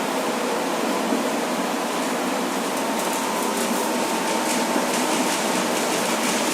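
Tram running along the track: a steady rush of wheel and motor noise with a faint high whine.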